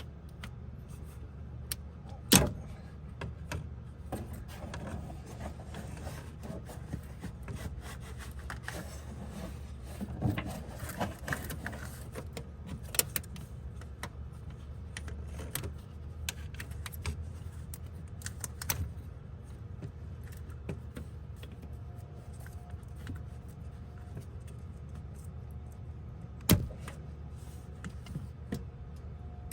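Metal hand tools clinking, rattling and scraping during work on the engine, with two sharp knocks, one about two seconds in and one near the end, over a steady low hum.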